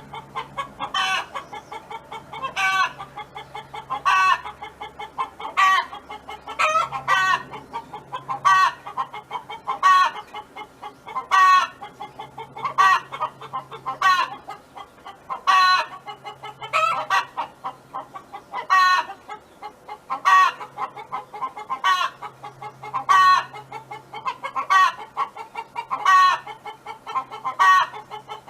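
A hen calling over and over in short clucking calls, one about every second and a half, in a steady rhythm.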